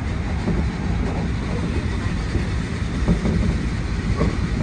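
Hankyu 1300 series electric train running at high speed, about 110 km/h, heard from inside the front car: a steady rumble of wheels on rail, with a few faint knocks in the second half.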